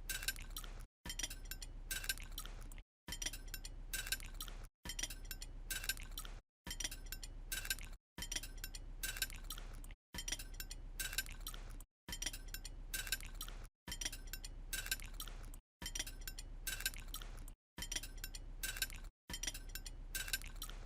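Light clinking of tableware, many small sharp ticks like utensils touching a dish or glass, in stretches of a second or two, each cut off by a brief dead silence.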